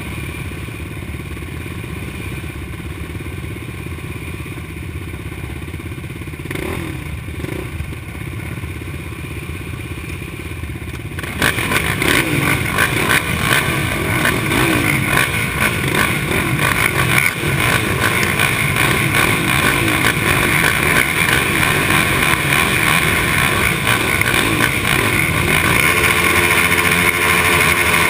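Motocross dirt bike engine running, then about eleven seconds in the sound jumps suddenly much louder and harsher as the bike is ridden hard.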